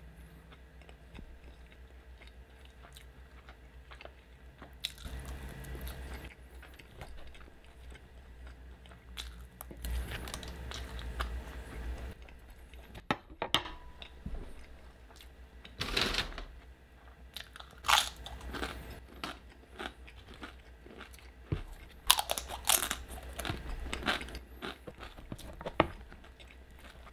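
Close-miked chewing of a mouthful of loaded carne asada fries: mouth noises with irregular sharp clicks, coming more often and louder in the second half.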